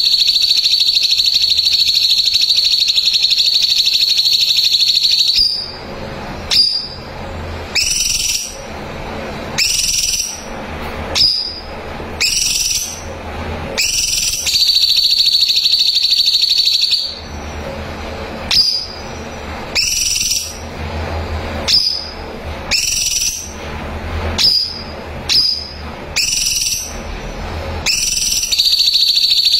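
Cucak cungkok, a bulbul, singing. Long high steady whistled notes of about five seconds alternate with runs of short rising calls about once a second.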